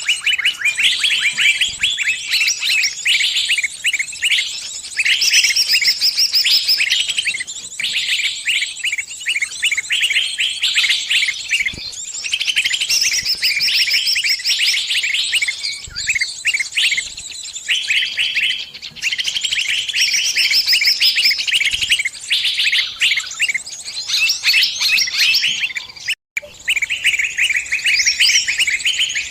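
Small songbirds giving rapid, continuous high-pitched distress chirps and trills, the calls of a trapped bird crying for help with others answering. A very short break cuts in near the end.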